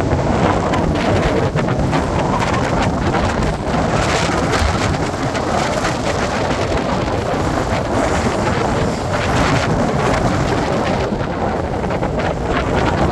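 BNSF double-stack container train's freight cars rolling past, a steady loud rumble of wheels on rails, mixed with wind buffeting the microphone.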